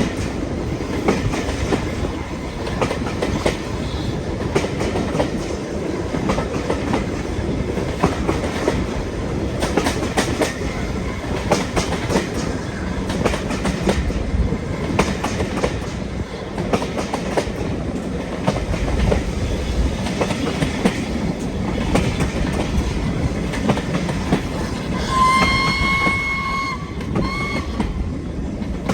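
Heritage steam-hauled train running steadily over rail joints with a continuous rumble and clickety-clack. Near the end a steam locomotive whistle sounds one long blast, then a short one.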